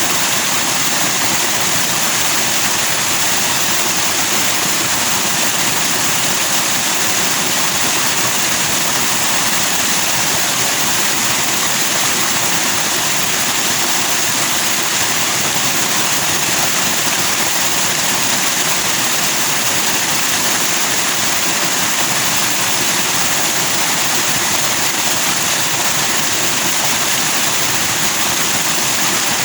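Forest stream rushing and splashing over rocks with white foam, a steady, even rush of water.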